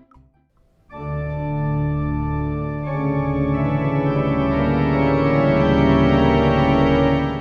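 Organ playing a sustained chord that starts about a second in, with more notes joining near three seconds in. The chord holds at full strength without fading, then stops abruptly.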